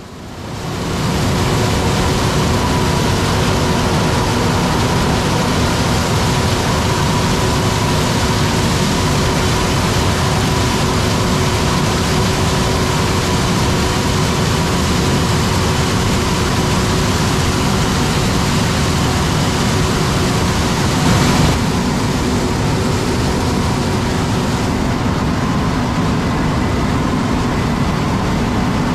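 Steady, loud mechanical running noise with a constant whine over it, fading in over the first second and swelling briefly about 21 seconds in.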